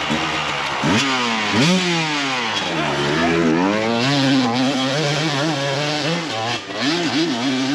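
Dirt bike engine revving hard, its pitch rising and falling again and again as the rider works the throttle up a steep hill climb.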